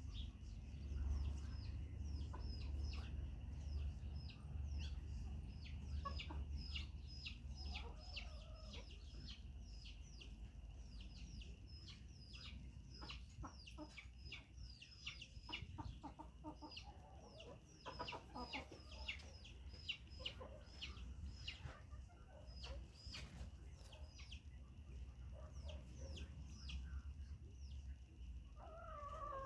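Chickens calling: a fast, continuous run of short, high, falling peeps, with a few lower clucking calls now and then.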